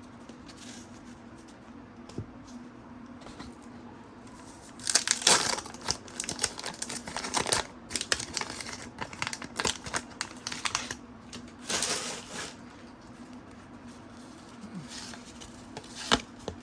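A trading-card pack wrapper being torn open and crinkled: quiet at first, then a run of sharp crackling lasting several seconds from about five seconds in, followed by a few softer rustles and a click near the end.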